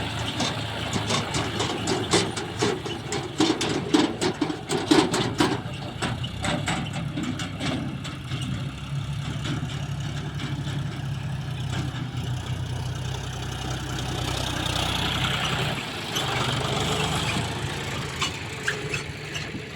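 John Deere 5039 tractor's three-cylinder diesel engine running, with a burst of rapid clicks and knocks over the first several seconds, loudest about four to five seconds in. It then settles into a steady drone.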